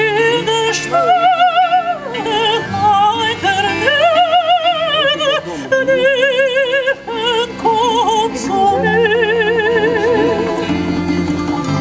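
A soprano singing in operatic style, holding long notes with wide vibrato, over a sustained instrumental accompaniment.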